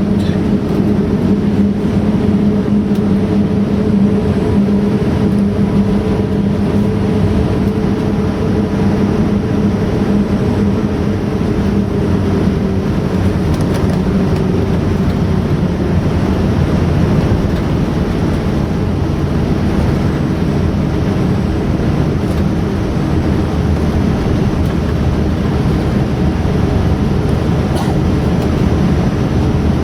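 Airliner cabin noise: the steady rush and hum of the jet engines and airflow, with a low droning tone that eases off about halfway through.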